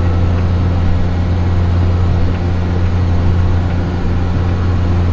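Tractor engine running steadily under load while planting, heard from inside the cab as a constant low drone.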